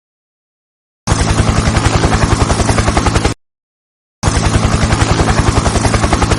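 Helicopter rotor sound effect, a fast, even chopping beat, cut in twice for a couple of seconds each, starting and stopping abruptly with dead silence between.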